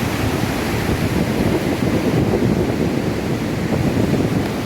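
River water rushing and cascading over rocks at a waterfall, a loud steady roar.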